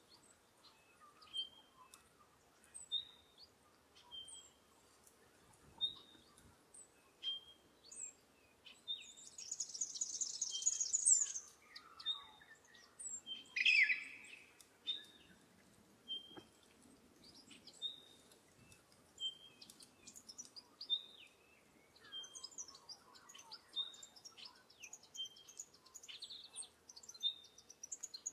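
Wild birds calling in woodland. One bird repeats a short high call about every second and a half, with a burst of rapid high twittering around ten seconds in, a louder call near fourteen seconds, and a busier mix of chirps in the last few seconds.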